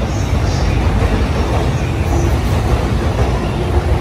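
JR East E531-series electric commuter train running past along the platform, a loud, steady rumble of its wheels on the rails.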